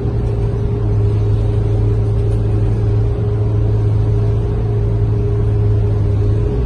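Scania K230UB bus's five-cylinder diesel engine and drivetrain heard from inside the bus as a steady low drone, running at an even speed with no change in pitch.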